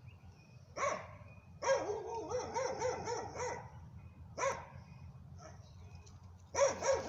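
Short, pitched animal calls: a single call, then a quick run of about eight calls, another single call, and a fresh burst of calls near the end.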